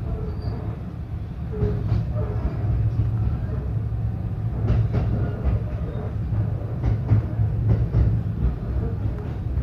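Local electric train running after pulling out of the station, heard inside the carriage: a steady low rumble with scattered sharp clicks of the wheels over rail joints.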